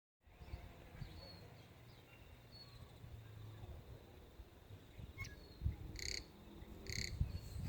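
Tui singing: a few thin, high whistled notes, then two short, noisy high notes near the end, all faint over a low rumble.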